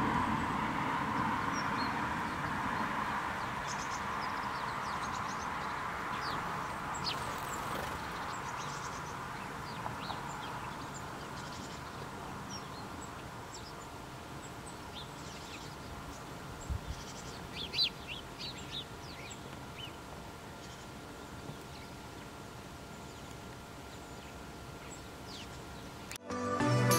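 Field ambience: small birds give short, high chirps now and then, most of them about two-thirds of the way in, over a steady hiss that fades during the first dozen seconds.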